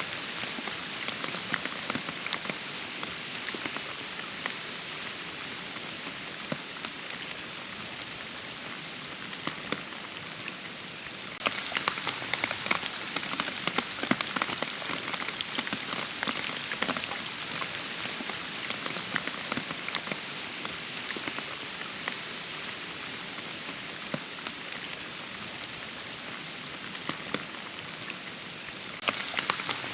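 Rain falling steadily, a dense hiss with many separate drops ticking through it. It turns abruptly heavier and louder a little over a third of the way in, and again just before the end.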